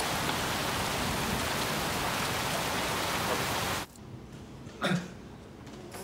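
Steady heavy rain falling on a street, cutting off suddenly about four seconds in. A quiet room follows, with a single dull thump about a second later.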